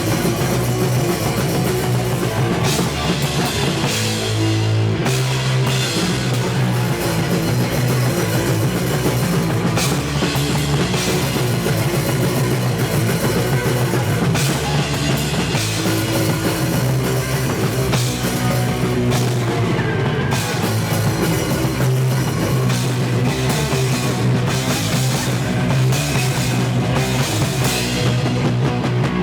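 Punk band playing live and loud: distorted electric guitar, bass and a pounding drum kit, recorded on a VHS camcorder.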